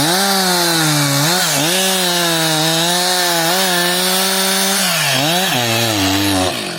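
Gasoline chainsaw running at high revs while cutting through wood, its engine pitch dipping briefly several times as the chain bites. Near the end the revs drop and the sound cuts off.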